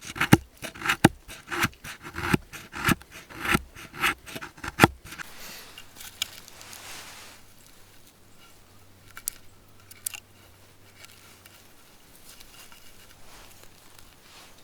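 A quick series of sharp knocks or snaps, about two or three a second, for the first five seconds. Then it goes much quieter, with a brief hiss and a few scattered faint clicks.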